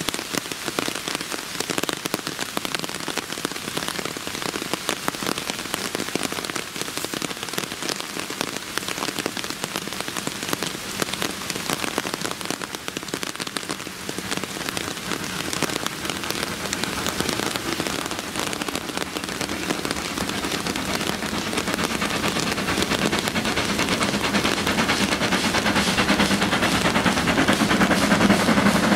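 Steady rain falling, a dense haze of fine drop ticks. In the second half a GWR Modified Hall 4-6-0 steam locomotive approaching with its train grows steadily louder beneath it.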